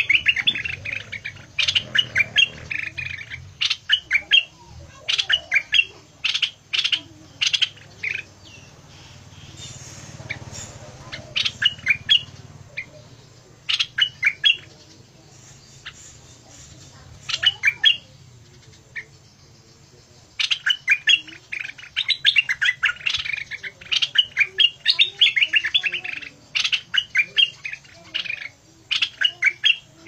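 A caged songbird calling in bursts of rapid, sharp, harsh chirps, with short pauses between runs and a long unbroken run in the second half.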